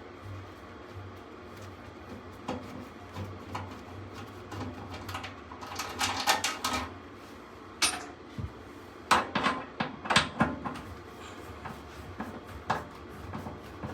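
Metal clinks, clacks and knocks as hand tools work on a furnace blower assembly during disassembly. The knocks come in scattered single strikes, with two busier spells of rapid clattering in the middle, over a low steady hum.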